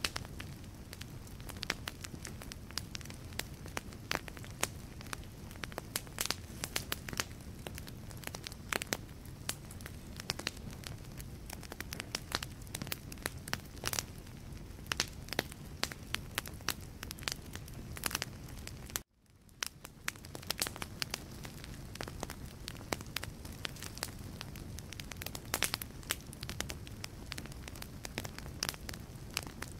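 Wood fire burning in a fireplace: a low steady rumble of flames under dense, irregular crackles and pops from the logs. About nineteen seconds in, the sound cuts out abruptly and fades back up within a second.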